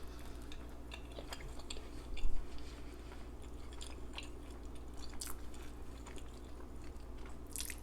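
Close-miked chewing and mouth smacking on fast food, a string of small wet clicks with a louder one about two seconds in.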